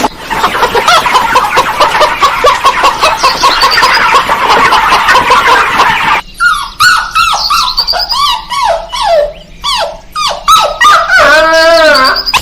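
Dogs barking and yelping: a dense, overlapping clamour of many barks for about six seconds, then separate short barks and yelps that rise and fall in pitch, ending in one longer whining call.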